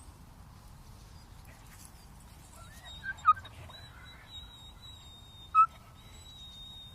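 Two short, high animal cries about two seconds apart, over a faint background with a thin steady high whine.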